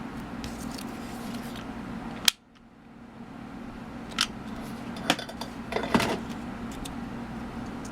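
A few sharp clicks and light taps from handling craft materials while hot-gluing a flower arrangement onto a card, over a steady low hum. The sound drops out briefly just after a loud click about two seconds in.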